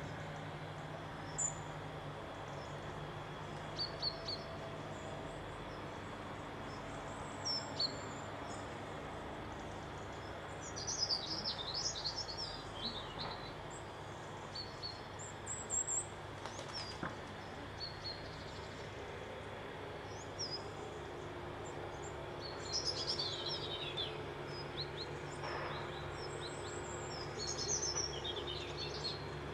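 Songbirds singing: scattered short, high chirps, and twice a louder run of rapid falling notes, about ten seconds in and again past twenty seconds. Under them runs a steady low hum.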